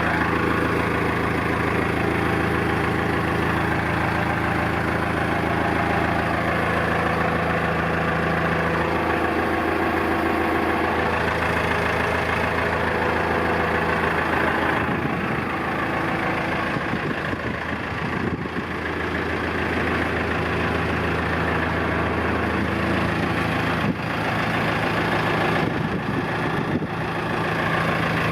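2001 Thwaites 6-tonne straight-tip dumper's diesel engine running at a steady idle. About halfway through, the note wavers and the level dips for a few seconds, then settles back to the steady idle.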